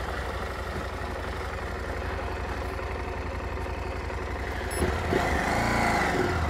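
KTM 890 Adventure R's parallel-twin engine running at low revs as the bike is ridden at low speed. About five seconds in, the throttle opens and the revs rise and fall once.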